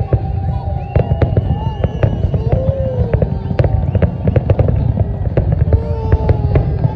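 Fireworks display: a rapid run of sharp bangs and crackles, several a second, over a continuous low rumble.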